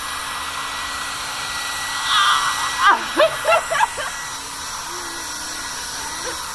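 Hair dryer running steadily with an even blowing hiss. About three seconds in, a few short high-pitched squeals sweep up and down over it.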